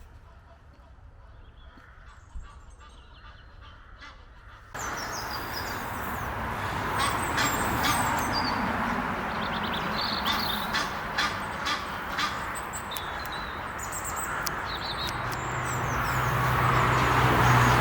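Egyptian geese honking. About five seconds in a loud, even rushing noise sets in suddenly and stays, with scattered short clicks, and a steady low hum joins near the end.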